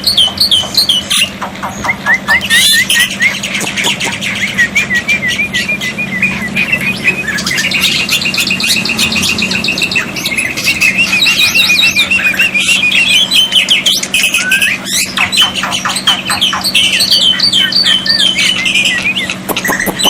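Black-winged myna (jalak putih) calling loudly in long, fast runs of short repeated notes and clicks, over a steady low hum.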